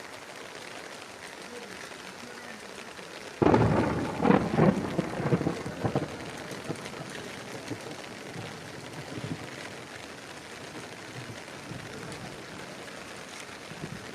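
Steady heavy rain hissing. About three seconds in, a sudden louder rumbling burst rises over it and dies away over a couple of seconds.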